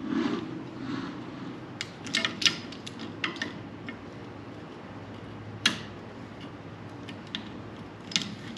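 Scattered sharp clicks and light taps from hand work on a sawmill band wheel, over a faint steady hum, with a short muffled low sound at the start.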